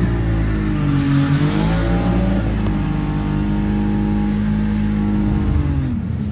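Car engine revving: the pitch rises and falls about a second in, holds steady through the middle, then drops near the end.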